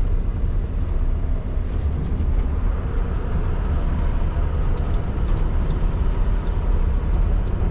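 2016 Scania R620's 16-litre V8 engine running steadily as it hauls a loaded stock truck and trailer, a constant low drone with road noise.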